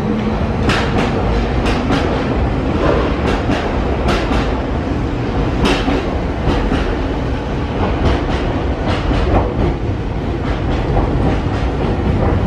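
Nankai 10000 series electric train pulling out of the station: a steady low rumble with its wheels clacking over the track, the clacks coming in close pairs every half second to a second as the cars roll past.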